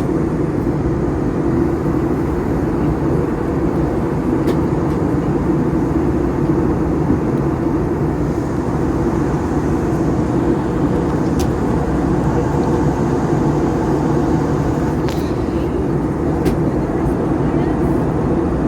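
Steady cabin noise inside an Airbus A320 airliner on descent: the drone of the engines and rushing airflow, strongest low down, with a few faint clicks.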